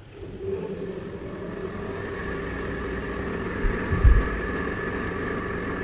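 Honda HR-V running at a steady idle, the sound coming up just after the start and holding steady, with a couple of low thumps about four seconds in.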